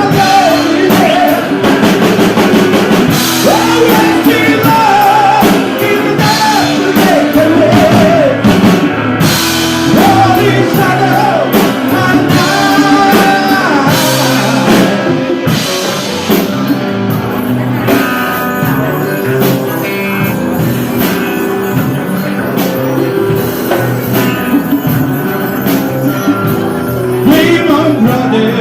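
Loud rock music with drum kit and guitar, a sung or lead melody in the first half, then an instrumental passage.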